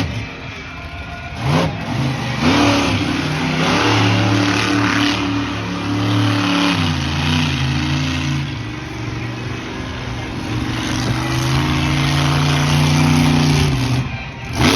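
Monster truck engine running loud and revving, its pitch dropping about seven seconds in and then climbing and holding steady.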